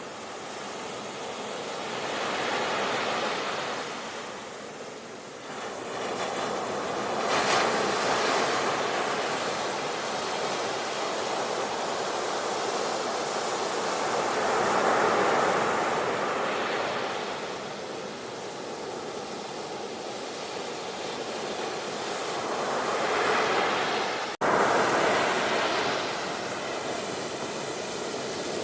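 Sea waves breaking and washing on a shore, swelling and falling back every several seconds. About three-quarters of the way through the sound cuts out for an instant and comes back at once, loud.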